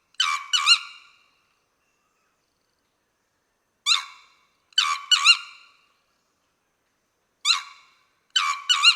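Sri Lankan junglefowl crowing: short three-note phrases, a single note followed by two quick notes that bend up and down in pitch, repeated about every three and a half seconds.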